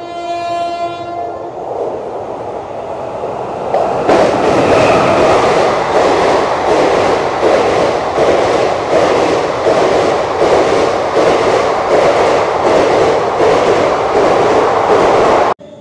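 A train horn sounds one steady, held note and fades out about a second and a half in. Then a passing train grows loud about four seconds in, with a rhythmic clatter of wheels over rail joints, until the sound cuts off suddenly near the end.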